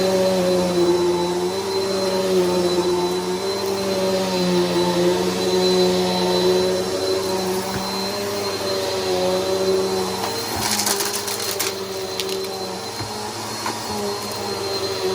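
Bissell PowerForce Helix upright vacuum running steadily, its motor hum wavering slightly in pitch as it is pushed, with a thin high whine over it. About two-thirds through comes a brief burst of rattling clicks.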